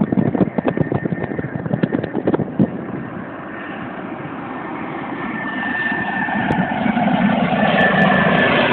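Airbus A320 jet approaching to land, its engine noise with a steady high whine growing louder from about three seconds in. Before that, wind gusts buffet the microphone.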